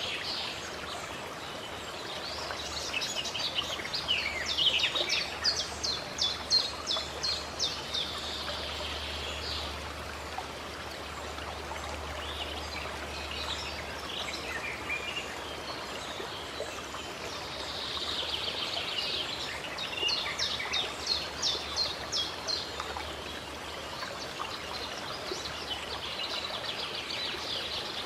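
Songbirds singing in runs of quick, high repeated notes, two long phrases in all, over the steady hiss of a running stream.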